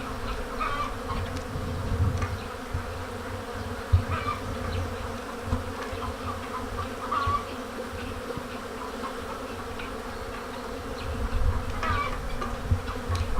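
Honeybees of a whole colony buzzing in the air around the hive on a spring cleansing flight, a dense steady hum of many bees at once. Short higher chirps and a few low thumps come through now and then, the loudest thump about four seconds in.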